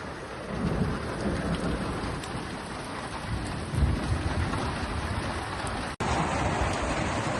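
Heavy rain pouring on a shelter's tin roof, with thunder rumbling in low swells. The sound cuts out for an instant about six seconds in, then the downpour carries on.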